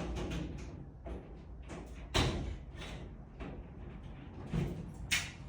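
A series of knocks and thuds, the loudest about two seconds in and another near the end, over a low rumble.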